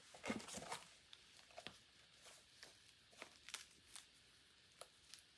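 Near silence: room tone with a dozen or so faint, short ticks and rustles spread through it.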